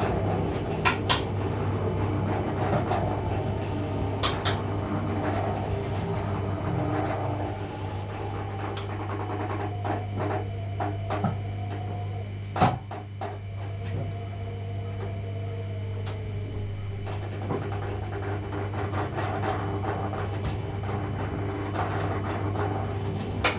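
Inside the cab of a Thurbo regional electric train: a steady electrical hum with faint motor whine, broken by a few sharp clicks and knocks, two about a second in and one near the middle.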